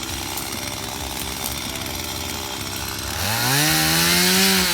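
Stihl two-stroke chainsaw running at idle, then revved up about three seconds in, its pitch rising quickly and holding high.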